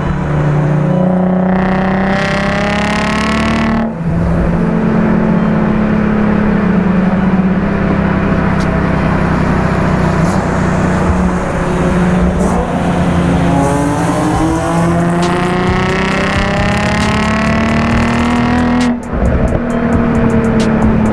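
Nissan VQ-series V6 with an aftermarket exhaust accelerating hard. Its pitch climbs for a few seconds, drops at an upshift about 4 s in, then climbs again and drops at a second upshift near the end.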